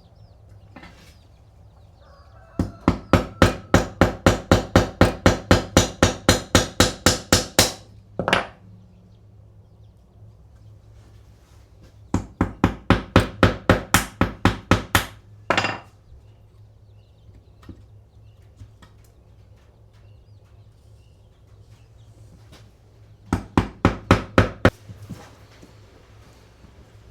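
Hammer tapping in quick, even strokes of about four a second, in three runs: a long one of about twenty blows starting a few seconds in, a second of about a dozen near the middle, and a short burst of about seven near the end.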